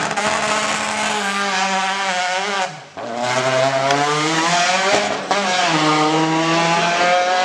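Rally car engine at full throttle, revving up through the gears: the pitch climbs, breaks off at a shift about three seconds in and again about five seconds in, then climbs again.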